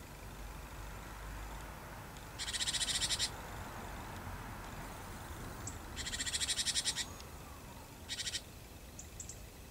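Three short bursts of a small bird's rapid, harsh rattling call, each a fast run of repeated notes lasting up to about a second, over a faint steady low hum.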